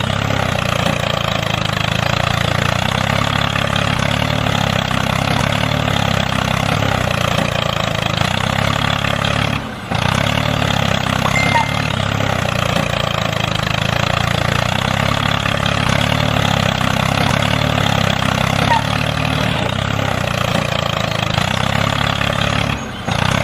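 Tractor engine running steadily at an even pitch, dropping out briefly twice, about 10 and 23 seconds in.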